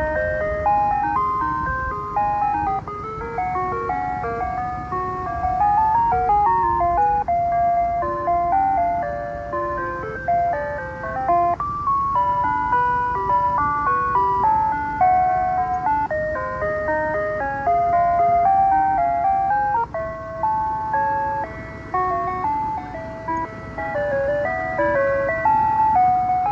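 Ice cream truck's Digital 2 electronic music box playing its chime tune over the loudspeaker: a plinky melody of single notes stepping up and down without a break. A low rumble runs underneath.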